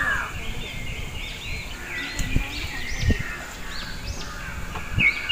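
Several birds calling and chirping, short arching notes repeating one after another. A few dull low thumps sound about two and three seconds in and again near the end.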